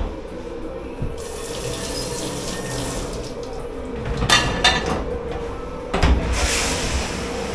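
Water running from a tap into a dish pit sink, starting about a second in, with a few sharp knocks of hard items near the middle and again near the end.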